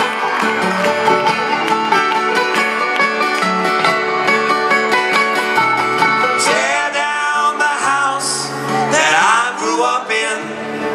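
Live acoustic band music: an instrumental break of rapidly picked banjo and guitar. About six seconds in, sliding, wavering pitched lines rise over the picking.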